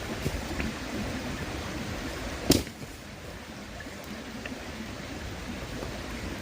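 Wood campfire crackling, with faint ticks and one sharp pop about two and a half seconds in, over the steady rush of a flowing river.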